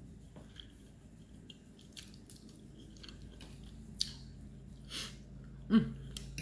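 A person chewing food close to the microphone, with small wet mouth clicks and a sharp click about four seconds in. Near the end there is a short, loud voiced sound from the eater.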